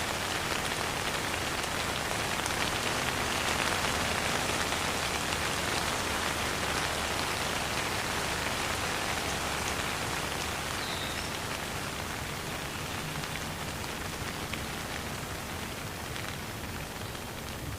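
Steady rain falling, a dense even patter with occasional sharper drops, easing slightly in loudness over the second half.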